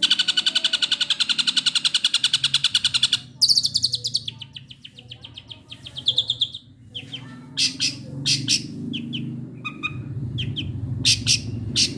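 Long-tailed shrike (cendet) singing: a fast, harsh rattling trill for about three seconds, two shorter rattles after it, then a string of sharp separate notes.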